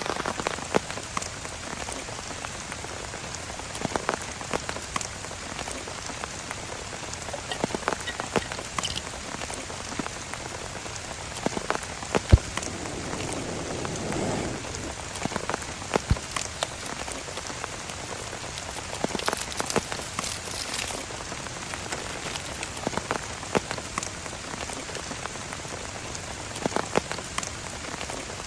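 Rain falling steadily, with many sharp drop hits scattered through it and a brief swell about halfway through.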